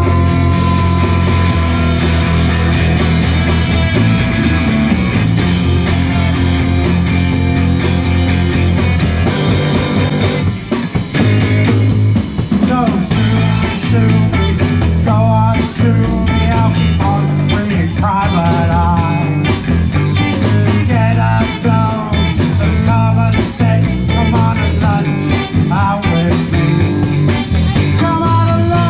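Live rock band playing loud: electric guitar, bass and drums. After a brief drop about ten seconds in, the band comes back with a wavering lead line over the beat.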